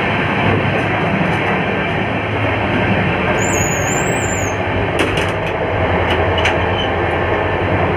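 Steady rumble and rattle of a moving Indian Railways sleeper coach, heard from its washroom end. There is a brief high wavering squeal near the middle, then a few sharp metallic clicks from about five seconds in as a door's bolt latch is handled.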